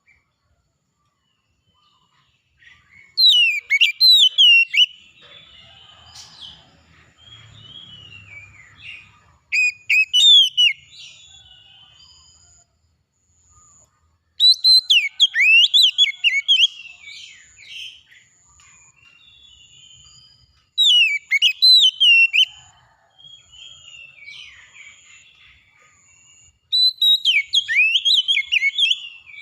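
Songbird singing in loud bursts of rapid, sweeping whistled notes, five phrases of one to three seconds each, with softer chirping between them. A faint high note repeats about once a second through the second half.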